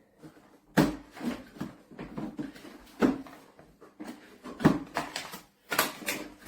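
Hard plastic knocks and clatter, several sharp bumps spread irregularly, as the parts of a carpet cleaner are handled.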